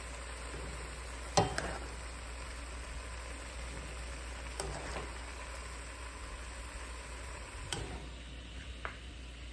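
Bitter melon and egg sizzling in a frying pan, with a utensil knocking against the pan a few times; the sharpest knock comes about one and a half seconds in.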